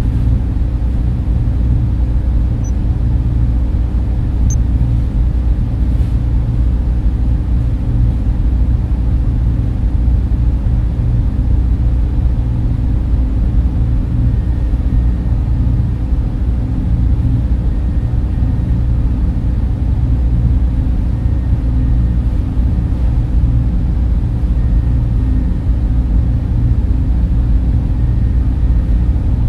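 Data center server and cooling fan noise: a steady, unchanging low drone with nearly all of its weight in the deep bass.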